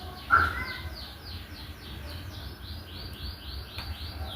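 A bird chirping over and over in the background, a quick falling note about four times a second. About a third of a second in there is one short, louder higher-pitched call or squeak.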